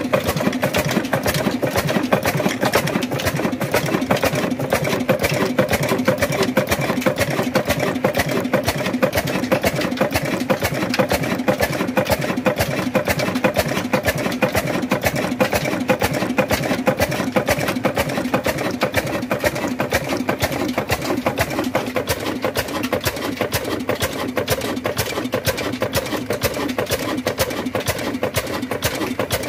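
A machine running steadily with a fast, even clatter.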